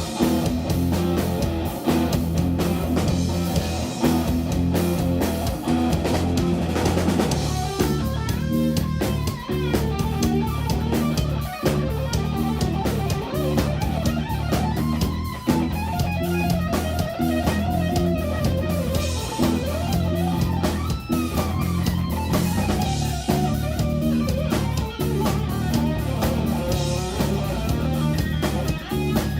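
Instrumental jazz-rock fusion played live by an electric guitar, bass and drum kit trio. A steady bass line and drums run underneath, and from about eight seconds in an electric guitar plays a lead line full of sliding, bending notes.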